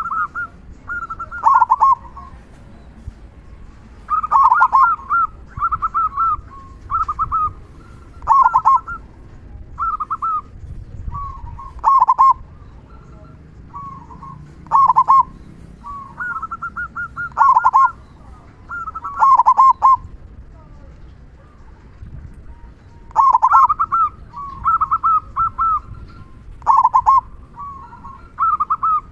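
Zebra dove (perkutut) singing its cooing song: phrases repeated every one to three seconds, each run of higher coos ending in a loud, deeper 'kung' note.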